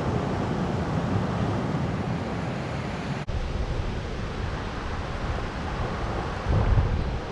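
Steady rushing of the Niagara River's rapids, a constant loud wash of water noise, with wind buffeting the microphone and a stronger low rumble near the end.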